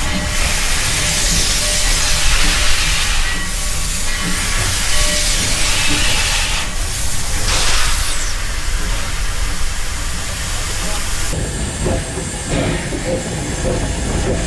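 Steam locomotive hissing loudly, the steam coming in surges over a steady low rumble. The hiss cuts off suddenly about eleven seconds in.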